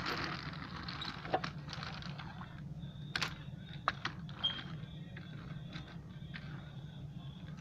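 Toy trains being handled on plastic track: a brief scraping at the start, then a few separate sharp plastic clicks and rattles over a steady low hum.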